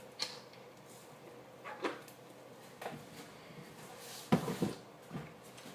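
A few light knocks and clatters of objects being handled, scattered and irregular, the loudest pair about four and a half seconds in.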